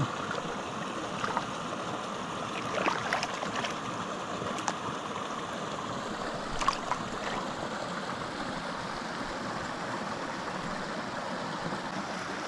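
Small mountain creek running steadily, with a few brief sharp clicks over the water about three and seven seconds in.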